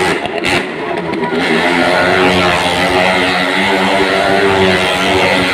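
Motorcycle engine running at steady revs.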